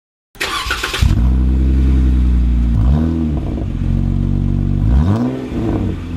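Jeep Wrangler JKU's V6 starting through an aFe Mach Force-XP cat-back exhaust: a short burst of cranking, then it catches about a second in and settles to a loud idle. The throttle is blipped twice, the revs rising and falling back, near the middle and again near the end.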